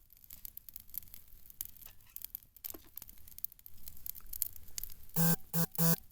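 Campfire wood crackling and ticking with small irregular snaps, with rustling. Near the end, three short loud pitched calls come in quick succession.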